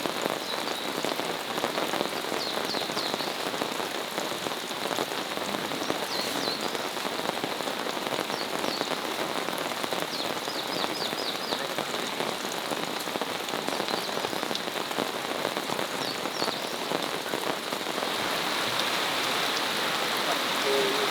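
Rain falling steadily, an even hiss of drops that grows slightly louder near the end, with a few brief clusters of short high chirps.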